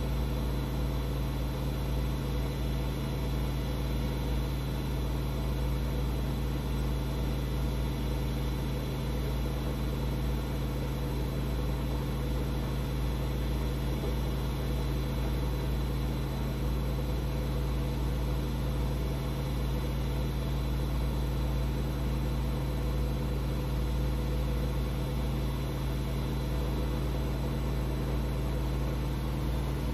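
Washing machine running with a steady, even low hum that does not change.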